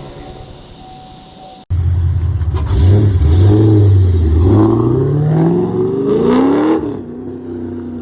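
Camaro SS's LS3 V8 through long-tube headers and a 3-inch true dual exhaust with X-pipe, being revved. It starts at a quiet idle, jumps in loud about two seconds in, the revs rise and fall, then climb steadily for a couple of seconds before dropping back to idle about seven seconds in.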